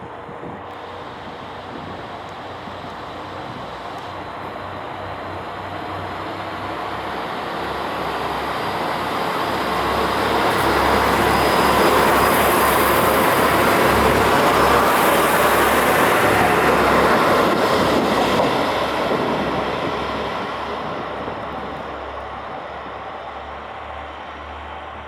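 JR Kyushu A-Train, a KiHa 185 series diesel railcar set, approaching and passing by on the rails. The rumble builds over about ten seconds, stays loudest for several seconds in the middle, then fades away.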